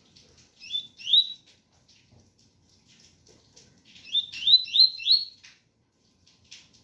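Double-collared seedeater (coleiro) singing its 'tui-tui' song: two rising whistled notes about a second in, then a quick run of four rising notes midway through.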